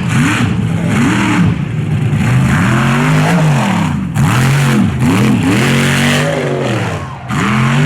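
Mega truck's big engine revving hard through a mud bog run, its pitch rising and falling over and over as the throttle is worked, with a rush of noise from the spinning tyres and thrown mud.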